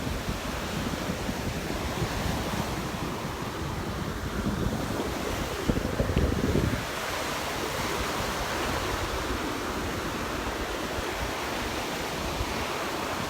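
Gulf surf washing onto the beach with wind buffeting the microphone, a stronger gust of wind rumble about six seconds in.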